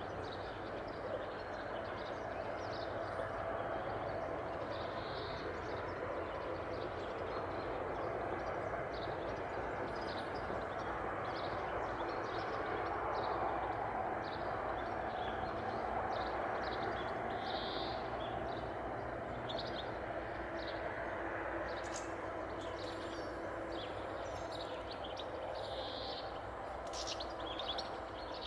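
Outdoor ambience: a steady low rumble with small birds chirping over it again and again.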